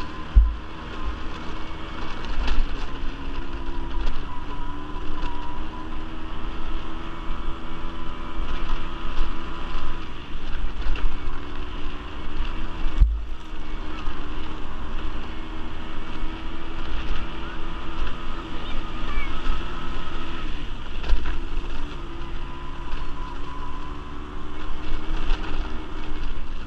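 Quad bike (ATV) engine running under way, its pitch rising and falling with the throttle, with wind buffeting the microphone in gusts.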